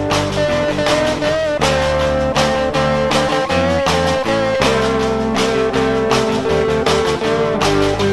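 Instrumental break in a rock band song: a lead guitar holds and bends long notes over bass and drums keeping a steady beat.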